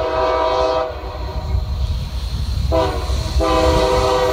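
Air horn of a Norfolk Southern SD40-2 freight locomotive blowing: a long blast that ends about a second in, a short toot near the three-second mark, then another long blast, the end of the long-long-short-long grade-crossing signal. A steady low rumble runs underneath.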